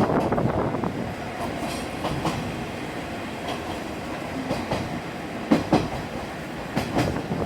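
Diesel railcar train running along the track, heard from the front of the train, with a few sharp clacks of wheels over rail joints about five and a half seconds in and again near the end.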